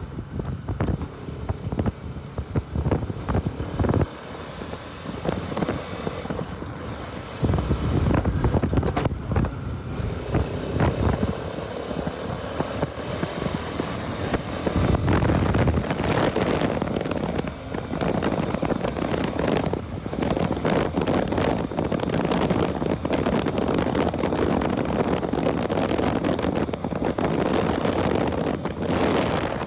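Wind rushing and buffeting over the microphone on a moving Bajaj Pulsar RS200 motorcycle, with the engine running beneath. The wind surges in gusts, strongest around 7 to 10 seconds in and again around 15 seconds in.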